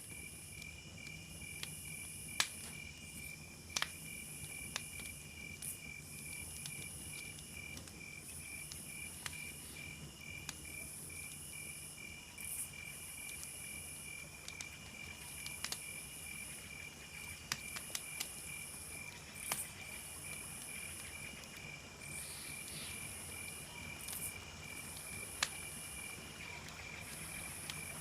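Crickets chirping in a steady, fast pulsed trill, with a higher-pitched insect buzzing in on-off spells. Scattered sharp pops and crackles of a campfire come every second or two.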